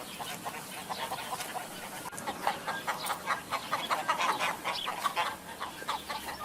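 A flock of poultry calling, with many short, overlapping calls that grow busier after about two seconds.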